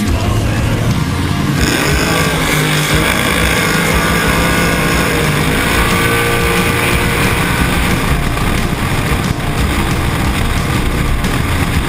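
Drag car's engine at full throttle as it launches off the start line about one and a half seconds in and runs down the eighth-mile strip, heard from a camera mounted on the hood.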